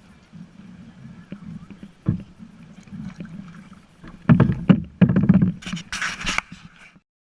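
Kayak on the water being paddled: a steady low rumble with a knock about two seconds in, then a cluster of loud knocks and a short splashy hiss before the sound cuts off suddenly.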